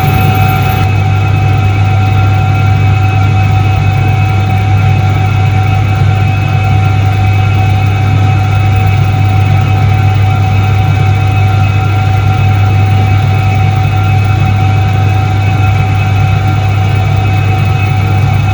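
Soviet Iset-3 washing machine from 1978 running: a steady, loud electric-motor hum with a constant higher whine over it, unchanging throughout.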